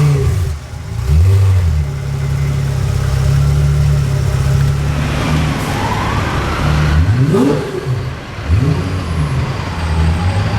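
A car engine running steadily at a low, even pitch, then revving up in a quick rising sweep about seven seconds in, with another rise at the very start.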